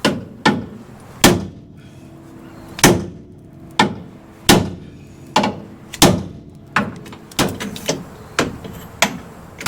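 Ball-peen hammer striking the steel front frame rail of a 1966 Ford Ranchero, about a dozen short blows at uneven spacing, each with a brief metallic ring, hammering out a bend left by a curb strike.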